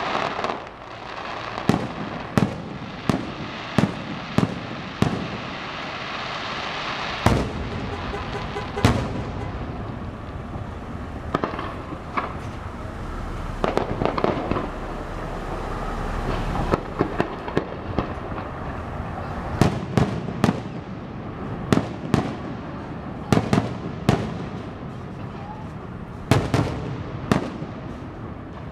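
Aerial fireworks going off. Sharp bangs come several about a second apart near the start and in a denser run toward the end, with continuous crackle and hiss between them.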